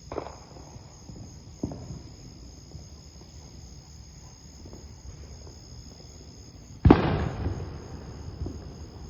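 Fireworks going off in the distance: a pop right at the start, another about a second and a half in, and a much louder bang near the end whose echo rumbles away over a second or so. A steady high insect drone runs underneath.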